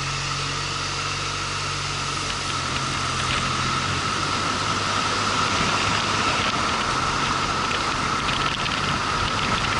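Motorcycle engine running under a steady hiss of wind and road noise that slowly grows louder; the engine's pitch drops a little about four seconds in.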